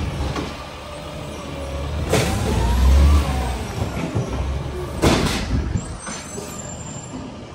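Heavy diesel truck engine running with a deep rumble, revving up and back down, with two short sharp bursts of air hiss, typical of air brakes.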